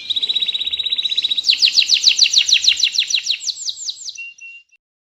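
Domestic canary singing a long rolling song. A fast high trill gives way about a second and a half in to a slower run of downward-sweeping notes, and the song ends in a short steady whistle.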